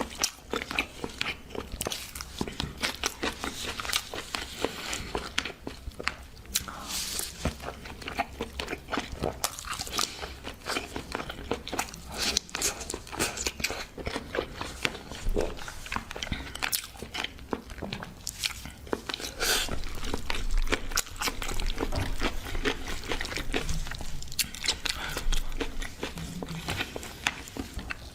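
Close-miked chewing and biting of food, with many crisp, irregular crunches.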